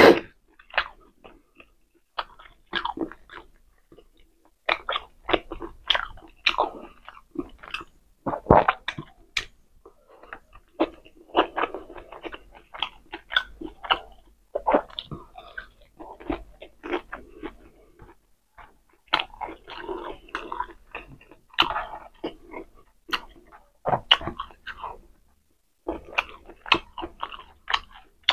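Close-up chewing and mouth sounds of a person eating pork steak, rice and hotdog by hand: irregular sharp smacks and clicks with short pauses between bites.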